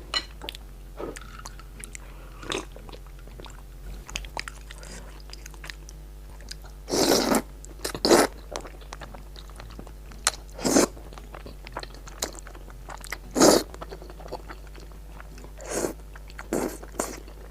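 A person chewing and biting food close to the microphone, with wet mouth clicks and several louder short crunching bites spread through.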